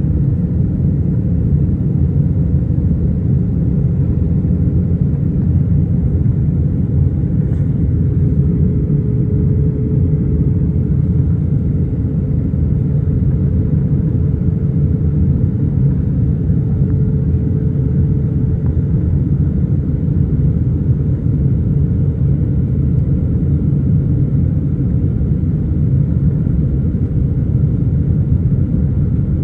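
Steady low rumble of cabin noise inside an Airbus A320 airliner in flight on its landing approach: jet engines and airflow heard from a window seat. A faint steady hum rises over the rumble for a stretch in the middle.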